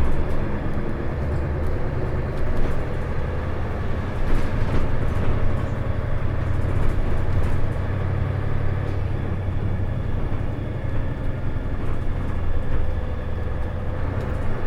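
Inside an Isuzu Erga city bus (KL-LV380L1) under way: the diesel engine gives a steady low drone, with road noise and small cabin rattles.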